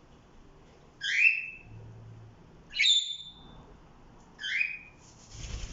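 Pet parrots calling: three short calls, the first and last alike and the middle one about 3 seconds in a sharper, higher whistle.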